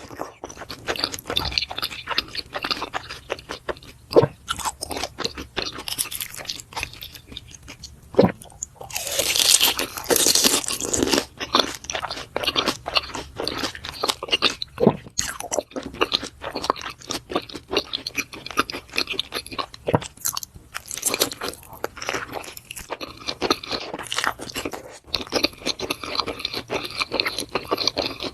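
Close-miked mukbang eating of grilled beef intestine and spicy noodles: a dense, continuous run of crunchy chewing and biting sounds, with a longer hissing rush about nine seconds in.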